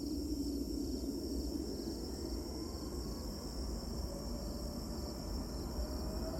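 Distant jet airliner engine, heard as a faint whine that slowly rises in pitch from about midway, over steady chirring of insects and a low rumble.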